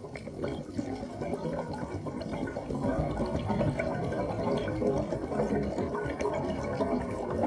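Water gurgling and bubbling, heard underwater: a dense, irregular churning with scattered small clicks.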